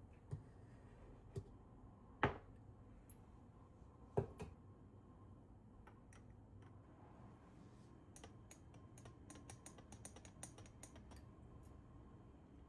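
A few sharp knocks of hard objects, then a quick run of light clicks.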